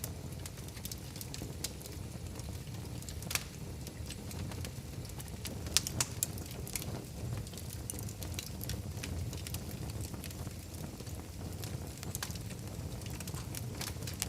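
Wood fire crackling in a fireplace: a steady low rumble of flames with irregular sharp pops and snaps, a few louder pops near the middle.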